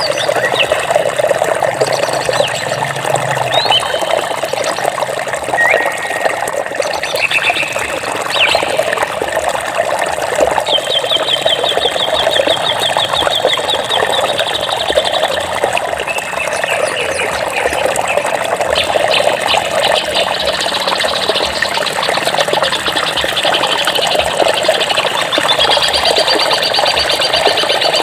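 Flowing water runs with a steady rushing sound while birds call over it: scattered short chirps and whistles, a fast trill of several seconds near the middle and another near the end.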